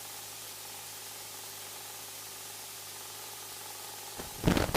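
Steady static hiss from the cockpit intercom and radio audio feed while no one transmits, with a faint steady hum underneath. Near the end, short crackling bursts break in as a microphone opens.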